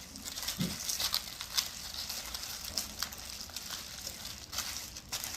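Hands rubbing olive oil and seasoning into a raw Hanwoo sirloin steak: faint, irregular wet squishing with small clicks.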